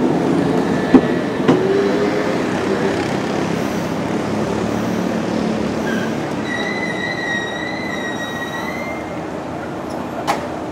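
Nankai electric train pulling into the platform and slowing to a stop: wheels click over rail joints and the brakes squeal, with a high, slightly wavering brake squeal lasting a few seconds in the second half. There is one sharp click near the end.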